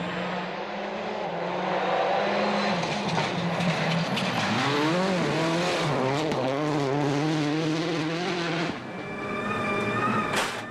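Rally car engine revving hard under the noise of the car on the stage, its pitch rising and falling in quick waves with throttle and gear changes. About nine seconds in, the engine sound drops and changes, followed by a couple of sharp clicks.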